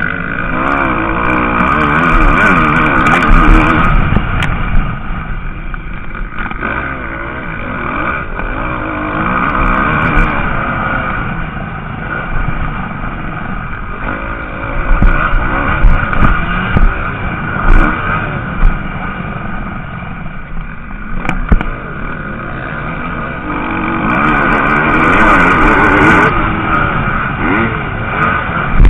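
MX2 motocross bike engines racing on the track, revving up and down as riders accelerate and shift, growing louder as bikes pass around three seconds in and again near the end.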